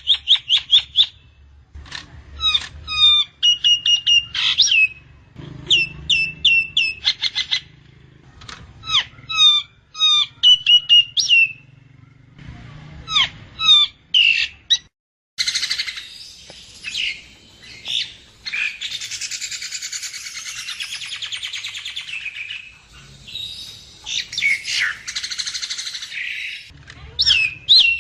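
Nias hill myna song: loud whistled phrases, each a fast run of sharp notes ending in a held or swooping whistle, repeated several times. After a sudden break about halfway through, a long dense harsh chattering takes over, and whistled phrases return near the end.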